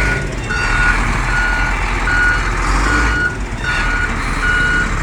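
Wheel loader's reversing alarm beeping steadily at a single pitch, about one beep every 0.8 seconds, over the machine's diesel engine running: the loader is backing up.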